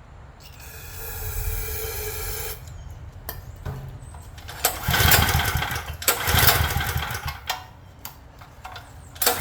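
Craftsman generator's small engine being pull-started on its recoil rope: two hard pulls, about five and six and a half seconds in, crank the engine but it does not catch. A steady pitched sound lasts about two seconds near the start.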